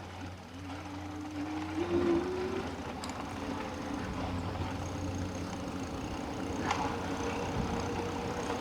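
Eahora Urban e-bike's electric motor whining, rising in pitch as the bike speeds up and then holding a steady tone, over tyre and road noise.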